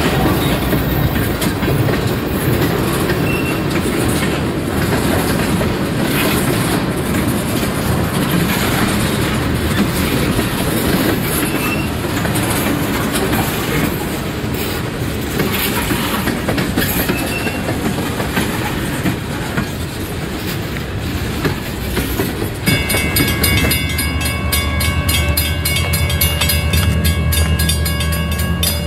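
A freight train of tank cars rolling past: a steady rumble with wheels clacking over rail joints and a few brief faint squeals. About 23 seconds in it gives way to a locomotive horn holding a steady chord over a low diesel rumble.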